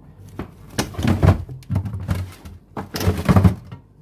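Heavy thuds and clattering knocks in two bouts, about two seconds apart, with a boxy small-room sound.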